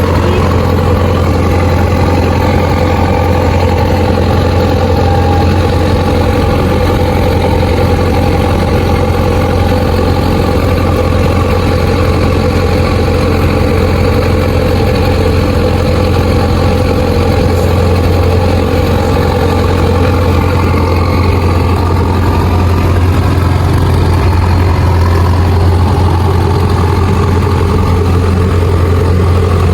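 Rice combine harvester's engine running steadily under throttle, with a strong, even low hum that shifts slightly about two-thirds of the way through.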